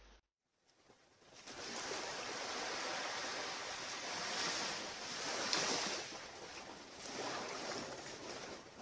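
Ocean surf washing onto a beach: a steady rushing that comes in about a second in and swells and eases.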